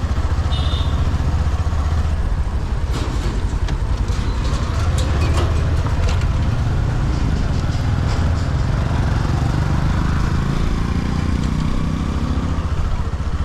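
Motorcycle engine running steadily while being ridden, with a string of short clicks from about three to six seconds in.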